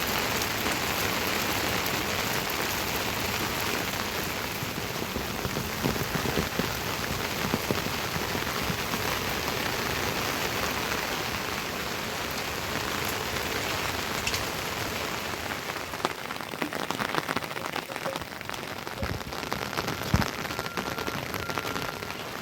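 Steady rain falling, with scattered sharper drips and taps on top.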